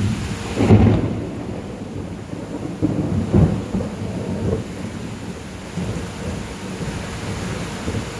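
Rain with gusting wind, the gusts coming as irregular low rumbling surges, strongest about a second in and again around three and a half seconds in.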